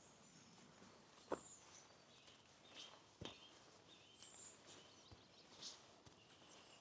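Small birds chirping and calling in short scattered notes, with footsteps on a lane: two sharp steps about one and three seconds in, and a fainter one later.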